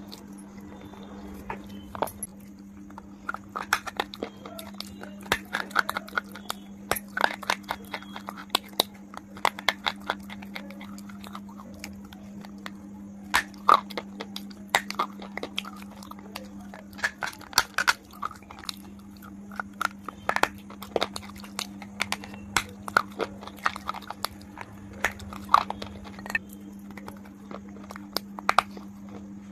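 KitKat chocolate wafer bar being bitten and chewed close to the mouth: many sharp, crisp crunches in irregular runs with short pauses, over a steady low hum.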